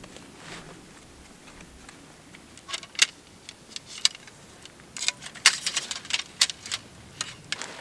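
A run of sharp clicks and taps, a few scattered ones about three seconds in, then a quick irregular cluster in the last few seconds.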